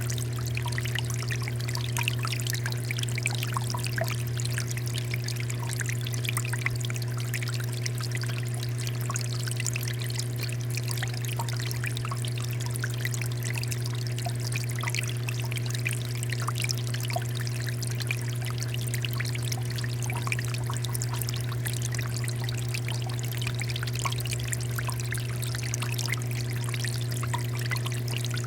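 Water fountain flowing steadily: continuous splashing and trickling water over a steady low hum.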